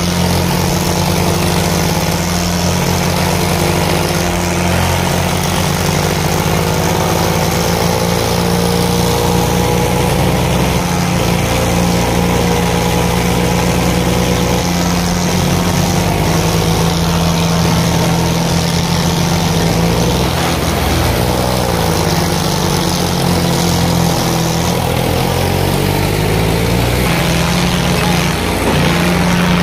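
Diesel tractor engines running loud and steady, with the engine pitch rising and falling as they work.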